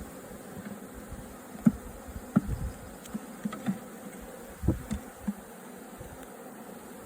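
A honeybee swarm buzzing steadily, broken by a series of sharp knocks or thumps about a second to five seconds in.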